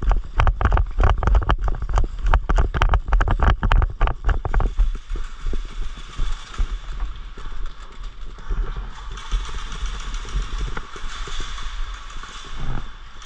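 Footsteps and gear rattling against a body-worn camera, a quick run of knocks and thuds for about four seconds, then a quieter hiss with faint ticks.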